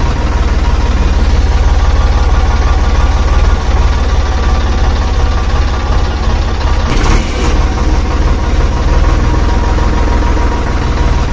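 Small electric motor of a DIY miniature tractor running steadily with a loud, even hum. There is a short hissing burst about seven seconds in.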